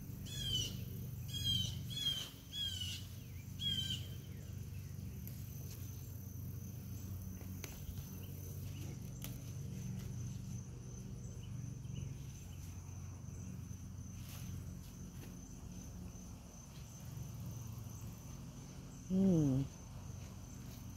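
Steady high insect drone, typical of crickets, over a low background hum. Four short chirps sound in the first few seconds, and a brief voice-like sound comes near the end.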